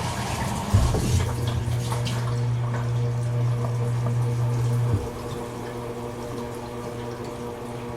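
Toshiba AW-42SEE4 fully automatic washing machine mid-cycle: water running and splashing, with a strong low electric hum that cuts in about a second in and cuts off suddenly about five seconds in, leaving a quieter steady hum.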